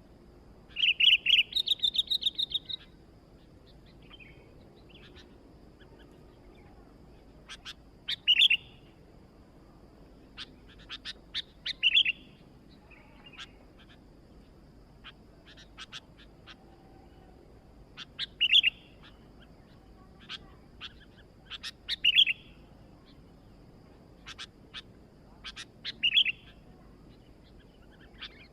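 Sooty-headed bulbul (kutilang) calling: a quick run of bright chattering notes about a second in, then short calls repeated every three to four seconds, with sharp clicking notes between them.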